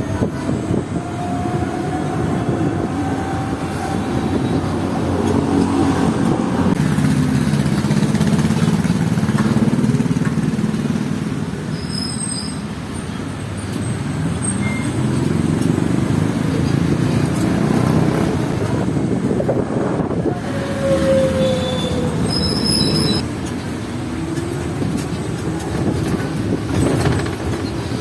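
Motor vehicle on the move in city traffic: engine running and revving up and down several times over steady road noise, with two brief high-pitched squeaks about twelve seconds in and near two-thirds through.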